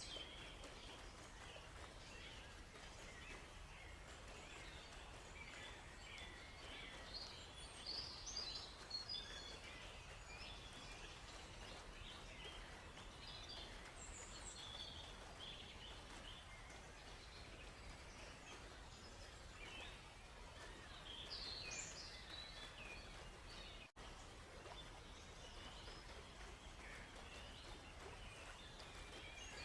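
Several small birds chirping and trilling in short, scattered calls over a faint, steady hiss of running water, with the birds busiest twice. The sound cuts out for a split second about four-fifths of the way through.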